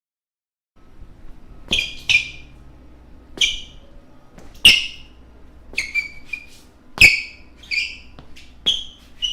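Basketball shoe soles squeaking on a floor: about a dozen short, sharp, high-pitched squeaks at uneven spacing, some in quick pairs, over a faint steady room background. The squeaks start after about a second of silence.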